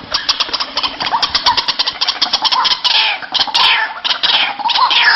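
White-breasted waterhen (ruak-ruak) calling: a fast run of short clicking notes, roughly eight a second, then from about three seconds in a series of harsh calls that drop in pitch.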